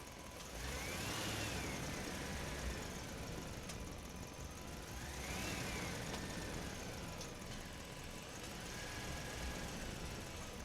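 Small electric motor of a toy dump truck whining as it speeds up and slows down, three times.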